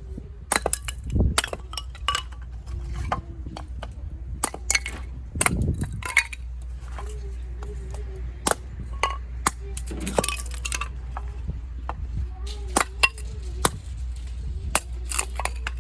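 Irregular sharp clicks and clinks, many of them through the whole stretch, over a steady low rumble of wind on the microphone.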